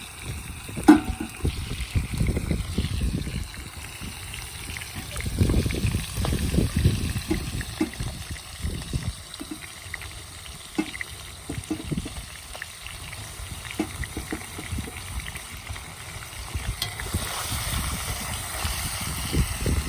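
Food frying in oil in a kazan and being stirred, with a steady sizzle and occasional clicks of a utensil against the pot. Gusty wind buffets the microphone with low rumbles throughout.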